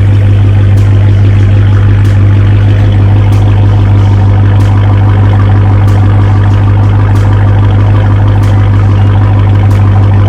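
Dodge Hellcat's supercharged 6.2-litre Hemi V8 running steadily through a mid-muffler-deleted exhaust, a loud, deep drone that holds one pitch with no revving.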